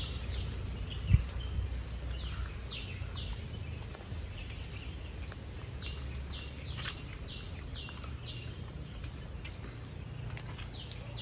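A bird singing short runs of quick, high notes that each slide downward, repeated every few seconds, over a low rumble. A single sharp knock about a second in.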